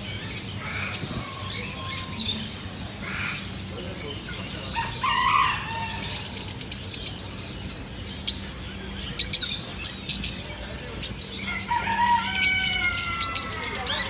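Parrot calls: several pitched, gliding squawks in three groups, near the start, midway and near the end, with many short sharp clicks between them.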